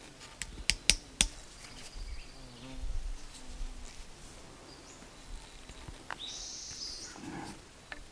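A few sharp clicks in the first second or so, then light handling noises, with a flying insect buzzing faintly.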